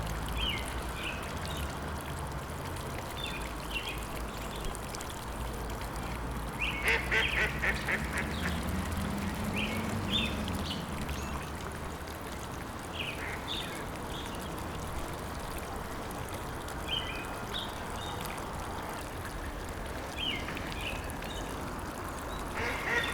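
Birds calling in short, scattered calls over a steady low background noise, with a louder run of quick repeated calls about seven seconds in and another near the end.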